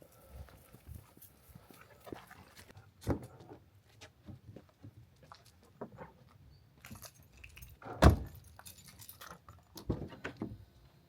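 Irregular handling noises: scattered clicks and knocks, with a louder thump about three seconds in, the loudest about eight seconds in, and a few more near the end.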